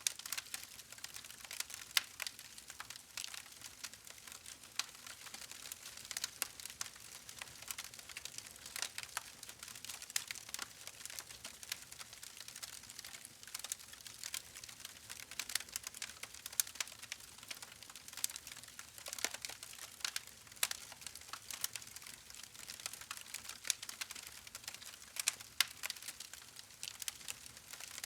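Wood fire crackling: a steady soft hiss with frequent irregular sharp pops and snaps from the burning logs.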